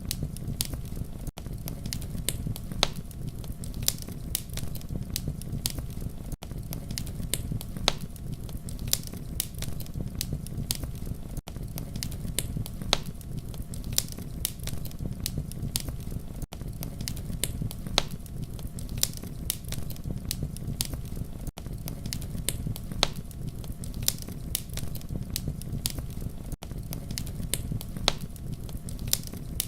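Campfire crackling: frequent irregular sharp pops and snaps of burning wood over a steady low rumble of flames. A very brief dropout in the sound comes about every five seconds.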